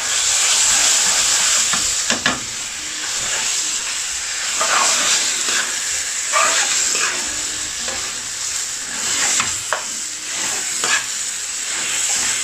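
Spiced chicken and tomato sizzling in an aluminium frying pan as natural yogurt is stirred in with a metal spoon; a steady frying hiss that jumps up right at the start, with scattered scrapes and clinks of the spoon against the pan.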